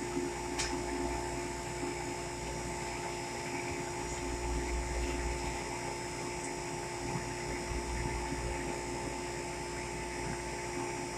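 Turbo Air self-contained refrigeration unit running steadily after start-up, a constant machine hum with a couple of steady tones over a low rumble, while it pulls the walk-in cooler's temperature down.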